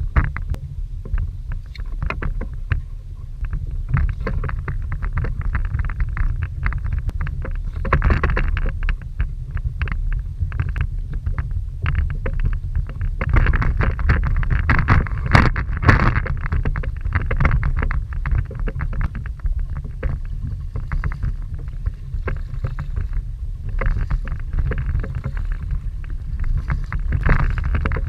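Kayak on choppy water: waves lap and splash irregularly against the hull over a steady low wind rumble on the microphone, from a strong southeasterly wind. The splashing swells in stronger spells about 8 seconds in, again between 13 and 16 seconds, and near the end.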